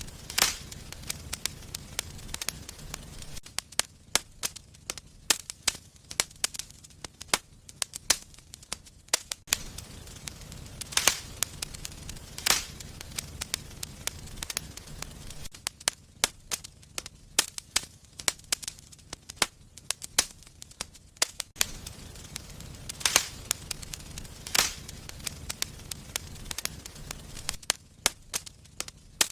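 Fire burning in a fireplace: irregular sharp crackles and pops, with a few louder snaps standing out among them.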